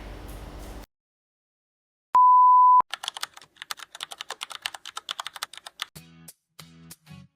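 Edited-in sound effects: a single loud, steady beep lasting about two-thirds of a second, then a rapid run of keyboard-typing clicks for about three seconds. Light plucked background music starts near the end.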